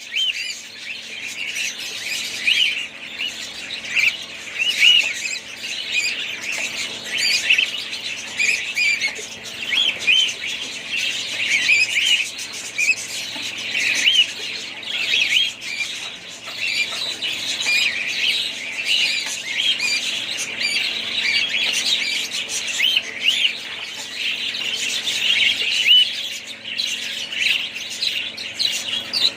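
A flock of budgerigars chattering: many short chirps and squawks overlapping without a break.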